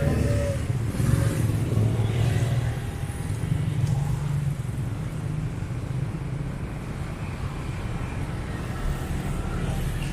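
Road traffic on a narrow city street: motor vehicles running past with a steady low rumble, louder in the first few seconds and easing off after.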